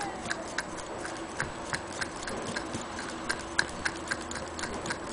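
Antique Willcox & Gibbs sewing machine mechanism turning over, giving a steady run of sharp mechanical clicks at about three a second over a faint hum.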